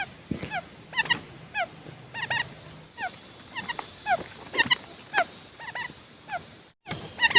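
Quail calling: short, high chirp notes that slide downward, repeated about once or twice a second, often in close pairs. The sound cuts out completely for a moment near the end.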